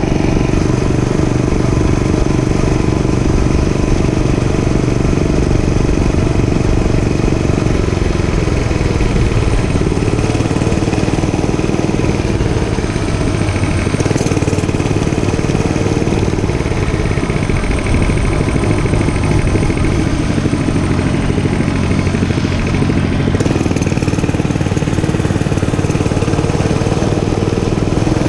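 Dirt bike engine running while riding, its pitch rising and falling gently as the throttle changes.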